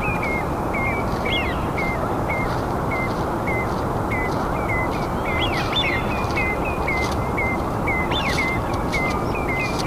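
Birds calling in a forest: short chirps repeated a few times a second, with a few longer swooping whistles, over a steady rushing background noise.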